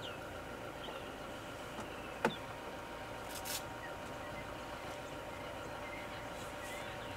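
Vehicle engine idling, a steady hum, with a few short high chirps and one sharp click about two seconds in.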